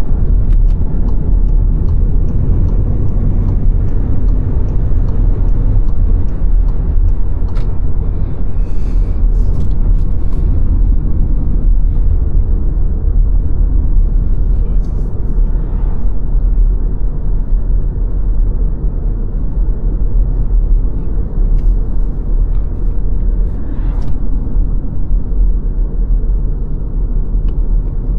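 Steady low road rumble of a car driving along, tyre and engine noise, with a few faint ticks scattered through it.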